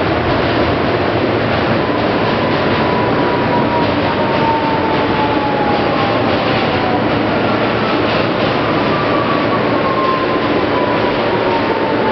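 Interior of an R160B subway car in motion: steady rumble and rattle of wheels on track, with a faint whine that slowly falls in pitch, twice, as the train slows.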